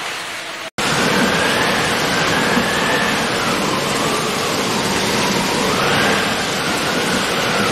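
Heavy rain pouring down: a dense, steady hiss, with a brief dropout a little under a second in. A faint tone glides slowly up and down above the rain.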